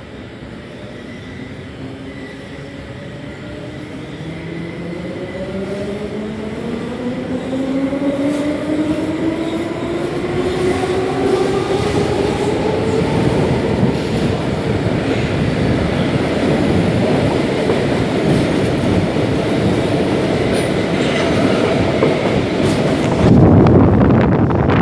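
Class 472 S-Bahn electric multiple unit heard from inside, pulling away: its traction motor whine rises steadily in pitch for about ten seconds as it gathers speed, over growing wheel and rail noise. Near the end the running noise gets louder.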